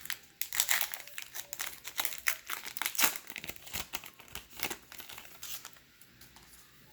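A baseball card pack's wrapper being torn open and crinkled in the hands: rapid crackling that is busiest in the first few seconds and dies away near the end.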